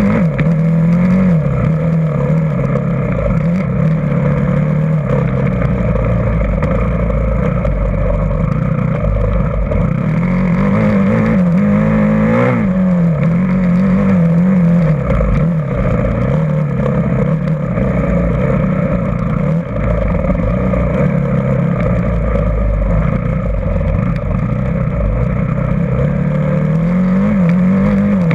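Dirt bike engine running hard, its pitch rising and falling every second or two with the throttle, climbing highest about halfway through and again near the end.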